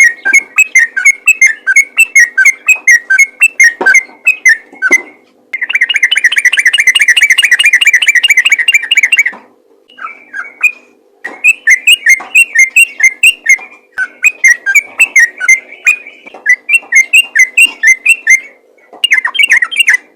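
Yellow-vented bulbul (trucukan) singing loud, rapid runs of repeated whistled notes. About five seconds in it breaks into a fast, unbroken trill lasting around four seconds, and short pauses come between the runs.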